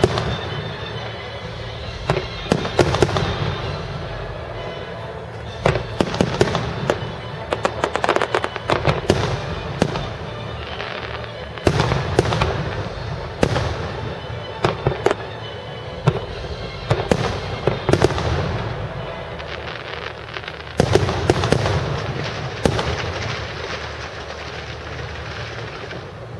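Distant fireworks display: sharp bangs and crackling clusters from aerial shells bursting in quick volleys every couple of seconds, thinning out near the end.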